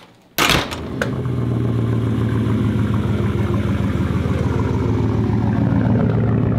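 Vehicle engine starting with a sudden burst about half a second in, then running steadily.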